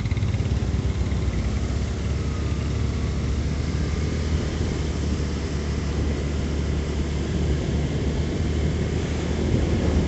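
Yamaha MX King motorcycle engine running steadily with a low, even hum.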